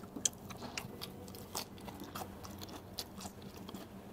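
A person chewing a mouthful of boiled crab meat close to the microphone: quiet chewing with scattered small mouth clicks.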